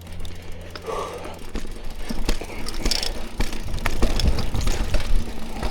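Mountain bike riding over rough, rooty singletrack: a steady rumble of tyres on dirt, with many sharp knocks and rattles from the bike over bumps, busiest in the second half.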